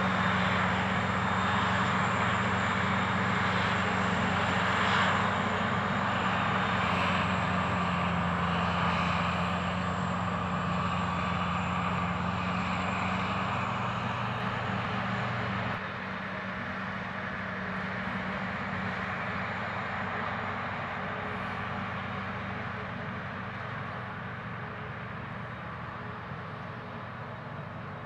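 Heavy diesel engine of silage-harvest machinery running steadily with a low drone, gradually fading away, with a sudden drop in level a little over halfway through.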